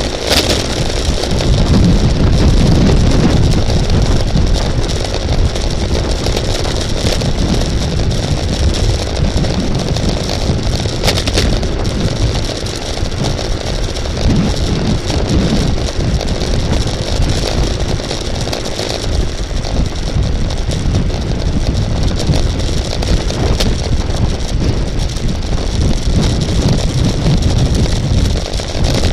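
Wind buffeting a bicycle-mounted camera's microphone at racing speed: a loud, steady, deep rumbling rush, with a brief click about 11 seconds in.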